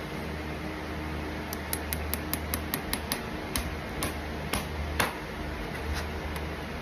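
Farrier's tools on a horse's hoof: a quick run of sharp taps, about three a second, then a few spaced out, the loudest about five seconds in, over a steady low hum.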